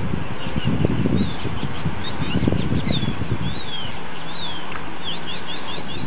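Small birds chirping in quick runs of short, sweeping high notes over a steady low rumbling noise.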